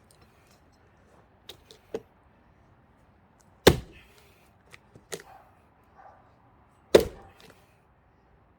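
Heavy blows striking a thick pine log being split for firewood. Two loud strikes come about three seconds apart, with lighter knocks before and between them.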